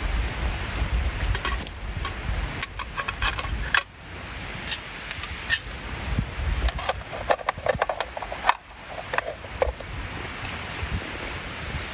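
Wind buffeting the microphone outdoors, with many scattered clicks and knocks, some of them briefly ringing, in the middle of the stretch.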